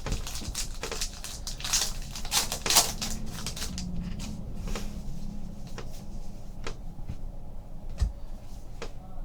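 Trading cards and their packaging handled on a table: a run of rustles and light clicks, busiest in the first few seconds, then sparser taps.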